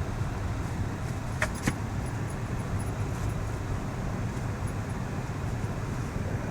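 Steady low rumble of a vehicle heard from inside the cabin as it creeps along slowly, with two sharp clicks about a second and a half in.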